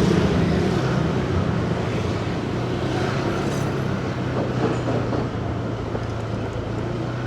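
Motorcycle engine running steadily under way, mixed with road noise and the hum of surrounding city traffic.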